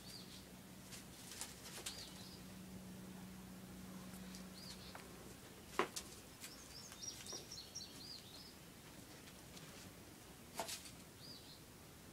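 Faint small-bird chirps: short, high rise-and-fall notes repeating every second or few, with a brief flurry of twittering about halfway through. Two sharp knocks stand out, one about six seconds in and one near the end.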